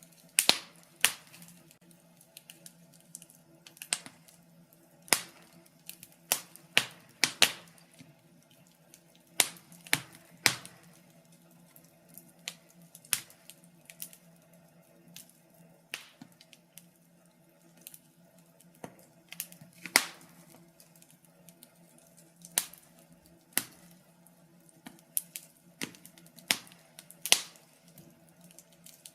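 Wood fire in a fireplace crackling: irregular sharp pops and snaps, some loud, some faint, at times in quick clusters, over a faint steady low hum.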